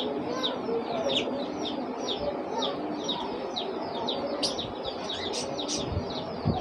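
A chorus of small caged birds chirping, short falling chirps about three or four times a second, over a steady low background noise.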